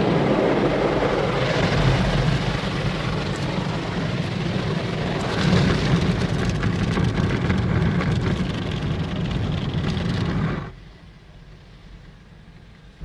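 Automatic car wash working over the car, heard from inside the cabin: a loud, steady rush of water spray and machinery over a low hum, which drops away suddenly about ten and a half seconds in.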